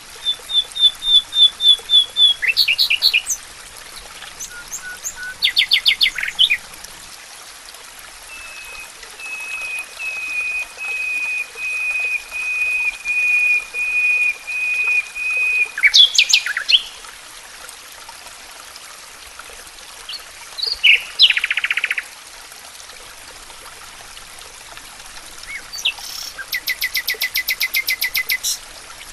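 Songbirds singing in a forest: several separate trilled phrases of rapidly repeated notes, one long even trill lasting about seven seconds in the middle and a fast high trill near the end, over a steady faint hiss.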